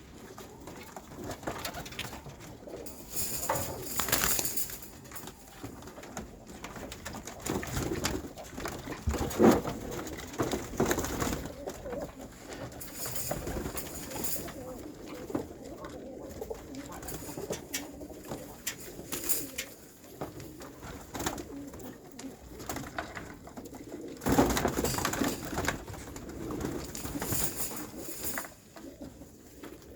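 Domestic pigeons cooing in a small enclosed space, with scattered clicks and a couple of louder bursts of rustling noise.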